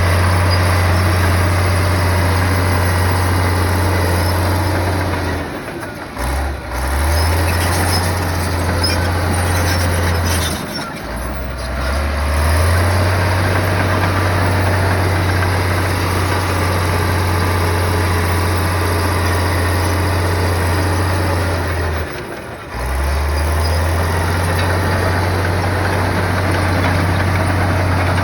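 Bulldozer's diesel engine running with a steady low drone. It drops off briefly three times and picks up again each time.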